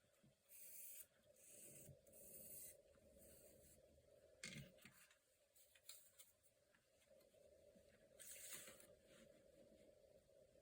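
Faint scratching strokes of a pencil drawing on paper, tracing boxes onto a journal page, with a small knock about halfway through.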